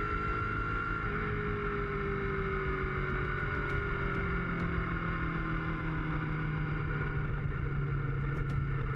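Motorcycle engine running at a steady cruise with road and wind noise, its pitch sagging slightly as it eases off.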